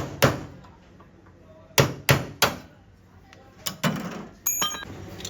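Hammer blows on car body sheet metal during panel denting, in short groups: two strikes at the start, three about two seconds in, and two lighter ones near four seconds. A brief high ringing sound follows near the end.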